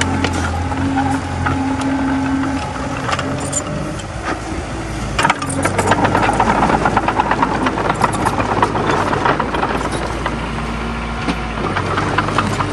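Komatsu D20A bulldozer's diesel engine running steadily. About five seconds in, the engine note changes and a dense metallic clatter and rattling sets in, easing off near the end.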